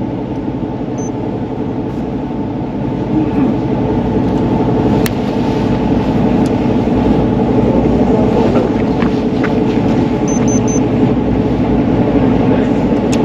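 Fishing boat's engine running with a steady low hum. A short high beep sounds about a second in, and three quick beeps about ten seconds in.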